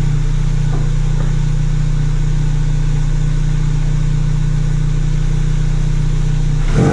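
Ford Focus RS's turbocharged 2.3-litre four-cylinder idling steadily, warmed up, through a full 3-inch exhaust with the catalytic converter deleted. A rev starts just at the very end.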